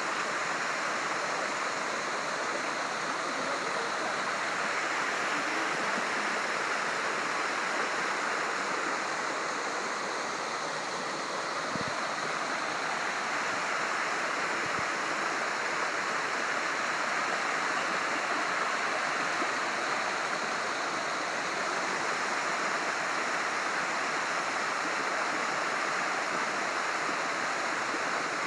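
Waterfall: the steady rush of falling water, an even, unbroken hiss throughout.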